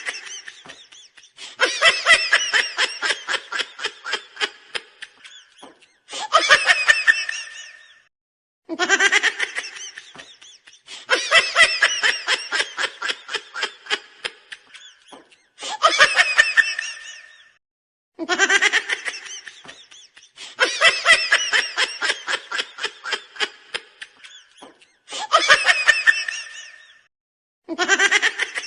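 A laughing sound effect looped over and over, repeating about every nine and a half seconds. Each pass rises into a long run of quick 'ha-ha' pulses that fades out, then a shorter burst of laughter, then a brief pause.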